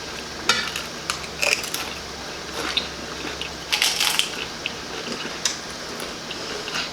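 Close-up crunching and chewing of tortilla chips loaded with toppings, a crisp crunch every second or so at uneven intervals.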